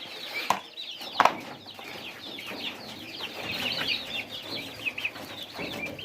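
A flock of young turkey poults peeping without pause: many short, falling chirps overlapping. There are two sharp knocks in the first second or so.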